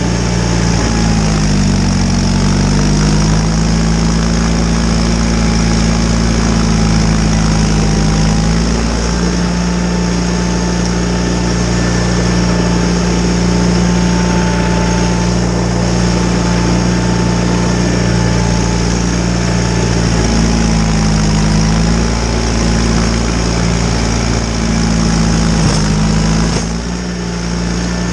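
John Deere 318 garden tractor's engine running steadily at working speed while driving a front snowblower. Its note sags and recovers twice as the blower takes on load, over a fainter steady whine.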